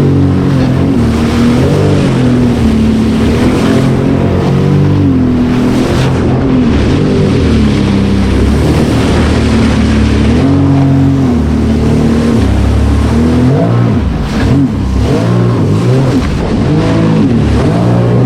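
Sea-Doo personal watercraft engine running, its pitch rising and falling repeatedly as the throttle is eased on and off.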